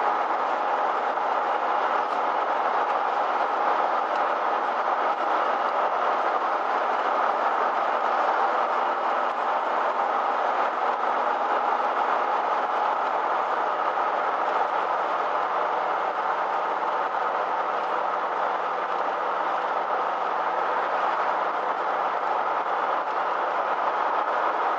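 Steady engine and road noise heard from inside a motorhome's cab while driving at low speed, with no change in pitch or level.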